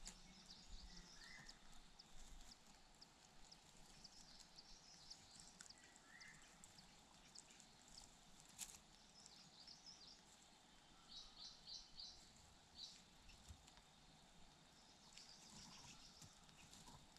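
Near silence: quiet outdoor ambience with faint, high, short bird chirps now and then, including a quick run of about four chirps about eleven seconds in.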